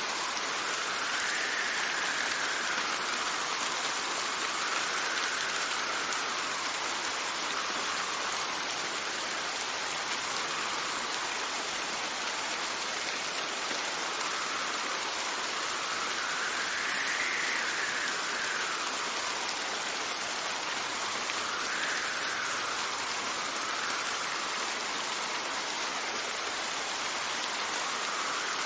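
Steady heavy rain falling, with gusts of wind that rise and fall in pitch every few seconds as a soft whistle over the rain.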